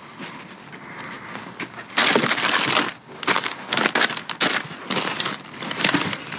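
Rummaging through trash in a dumpster: plastic and packaging crinkling and crunching in irregular bursts, faint at first and loud from about two seconds in.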